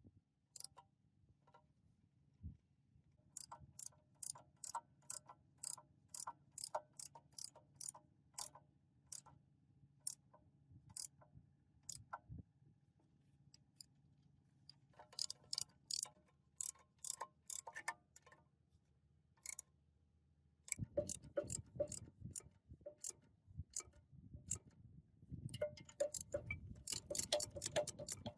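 Irregular light metallic taps and clicks from hand-tool work on metal parts, about one or two a second, growing denser and rougher in the last several seconds.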